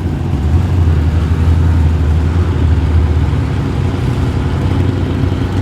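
Car engine running with a steady deep, low rumble.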